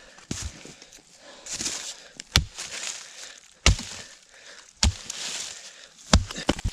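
Hand tool chopping into a tree stump's roots: four hard strikes, about one every second and a quarter, with scraping and crunching of wood and soil between them.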